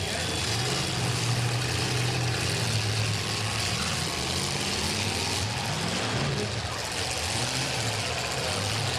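Eight-cylinder demolition derby car engines running, a steady low drone under a broad haze of noise.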